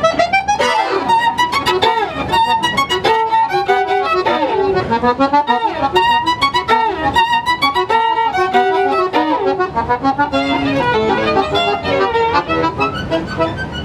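Lively fiddle music: a fast violin melody with quick runs and sliding notes.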